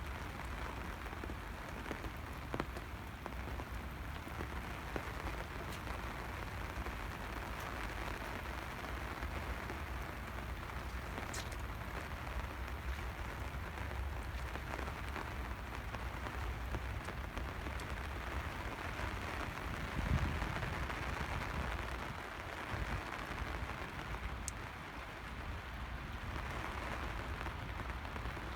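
Steady rain falling on surfaces: an even hiss with a few sharp drip-like clicks and a low rumble underneath.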